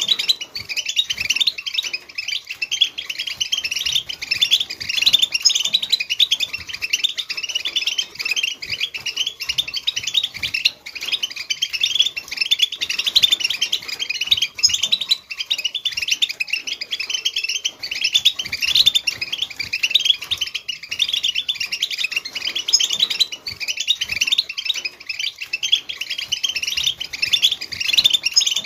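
A flock of European goldfinches twittering and singing together, many birds' quick chirps and trills overlapping without a break.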